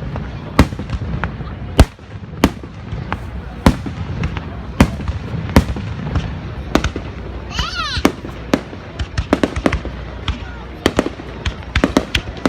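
Fireworks display: shells bursting in a steady run of sharp bangs, coming faster toward the end, with a brief whistling glide a little past halfway and a low rumble underneath.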